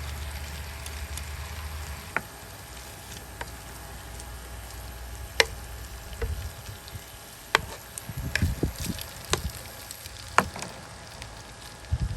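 Food frying in a pan on an induction hob: a steady sizzle with several sharp clicks scattered through it. A low hum stops about two seconds in.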